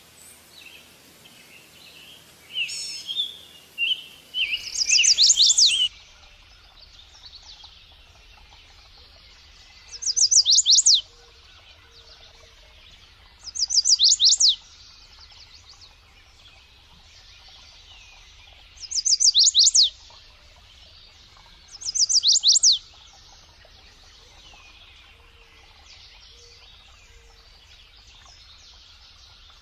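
Songbird singing a short, high phrase of rapid downward-sweeping notes, about a second long, repeated five times at intervals of a few seconds, over faint chirping of other birds.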